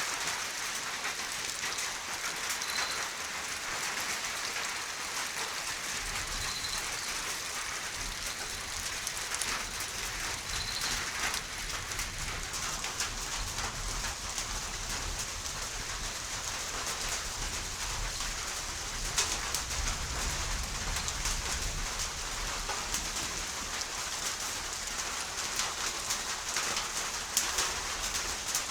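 Steady rain shower, with drops pattering on surfaces. A few short high bird chirps come in the first dozen seconds, and a low rumble joins about six seconds in.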